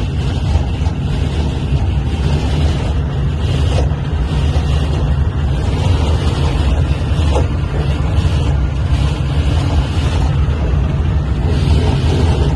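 Steady low rumble and rushing noise of a Delhi–Meerut RRTS train running at high speed, heard inside the driver's cab.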